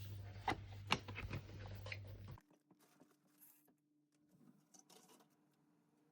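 Computer keyboard typing: irregular key clicks. A low background hum cuts off abruptly about two and a half seconds in, and the clicks after that are fainter and sparser.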